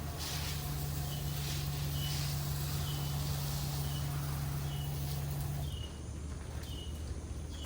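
A steady machine hum with a hiss over it starts suddenly and cuts off after about six seconds. Under it is a low constant drone, and a bird's short, high chirp repeats a little more than once a second.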